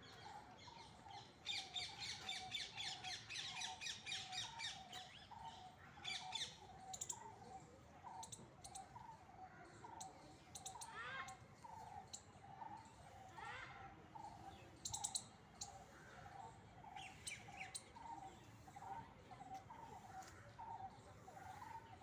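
Faint birdsong: one bird repeats a short note evenly throughout, while others chirp in quick, high bursts, densest in the first few seconds.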